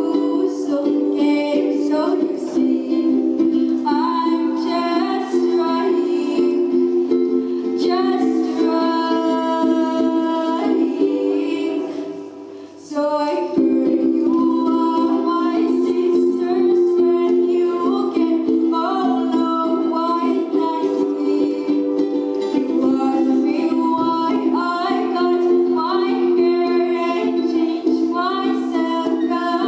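A girl singing a song solo over a plucked-string accompaniment, with a brief drop in level about twelve seconds in.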